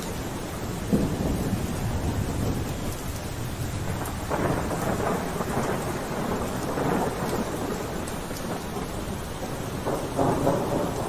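Steady rainfall with several louder rolling swells: one about a second in, a longer one from about four to seven seconds, and another near the end.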